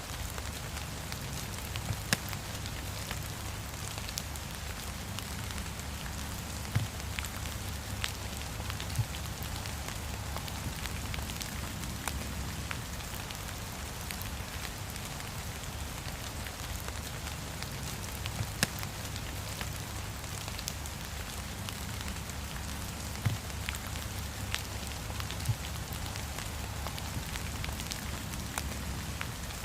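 Steady heavy rain falling, with a few sharp crackles and pops from a wood fire scattered through it.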